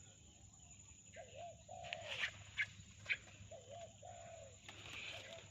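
Spotted dove cooing, a rolling two-part coo phrase repeated about every two seconds, three times. Short, sharp chirps from a small bird come in about two to three seconds in.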